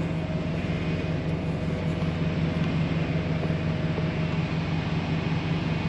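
Idling semi-truck diesel engine: a steady, even low hum.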